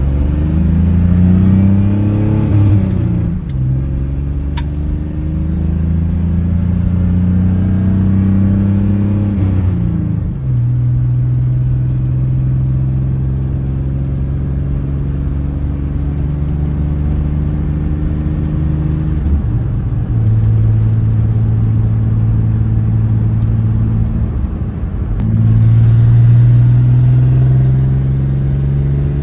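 1993 Chevrolet S10's 4.3-litre V6 running with the muffler cut out, driving: the engine note climbs as the truck accelerates, drops at gear changes about three and ten seconds in, then holds steady at cruising speed, with two brief dips later on.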